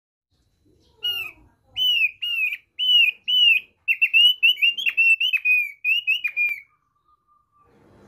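Thick-billed heleia (opior paruh tebal) singing its basic song: a series of loud, clear, down-slurred whistles. The notes start about a second in, run closer together from halfway, and stop shortly before the end.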